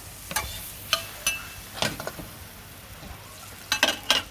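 Thai street pancake (roti) frying on a hot griddle, a steady sizzle under sharp metallic taps of a spatula against the pan: a few single taps, then a quick cluster near the end.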